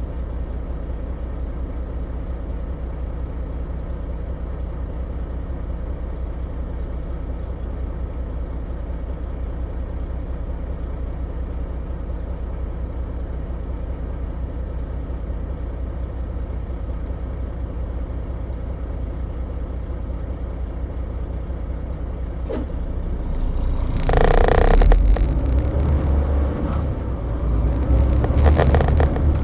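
Semi truck driving, its engine and road noise a steady low rumble, with two louder swells of rushing, hissing noise near the end.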